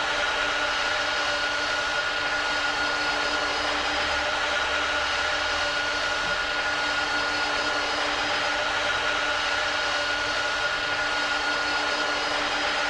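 Airbus A330 jet engines running steadily, a constant rush of noise with a steady whine on top.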